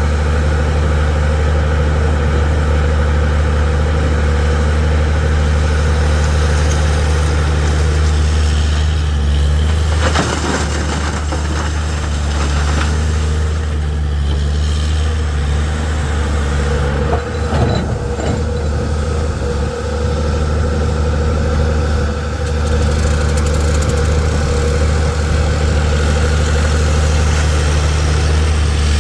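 Heavy diesel engine of earthmoving machinery running steadily at a constant speed, with a couple of short clanks about a third of the way in and again past the middle.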